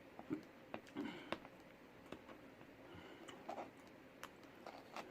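Faint close-up eating sounds: irregular wet clicks and lip smacks of someone chewing, with no steady rhythm.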